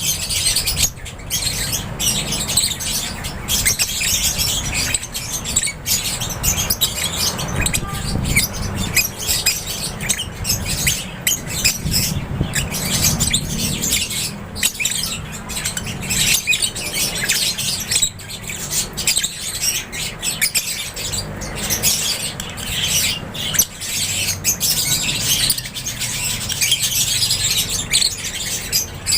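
A flock of African lovebirds chattering in an aviary: a dense, unbroken mass of high chirps and squawks, over a steady low rumble.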